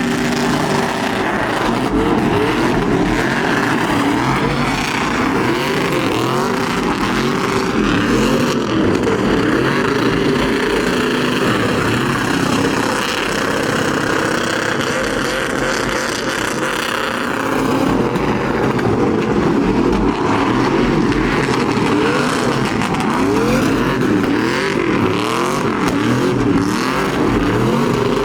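Several truck engines revving over one another, their pitch sweeping up and down again and again.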